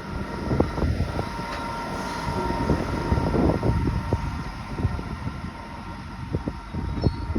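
Sydney electric passenger train running, a steady low rumble with irregular knocks from the wheels and running gear and a faint steady whine; no horn sounds.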